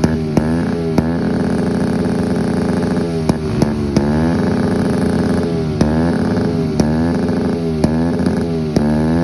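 Motocross dirt bike engine revving, its pitch repeatedly rising and falling with steadier stretches in between, and short sharp clicks scattered through.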